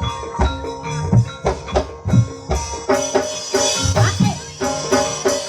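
Javanese gamelan music for ebeg (kuda kepang): sharp hand-drum strokes over ringing metallophone notes in a steady rhythm.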